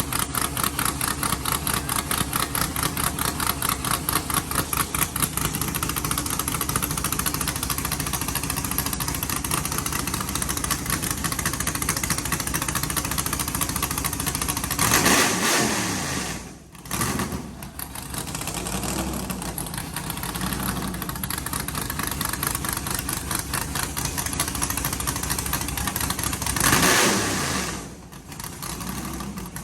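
Texas Speed 408 cubic-inch stroker LS V8 with a custom camshaft idling with an uneven, pulsing beat. The throttle is blipped twice, about halfway through and near the end, and each rev drops quickly back to idle.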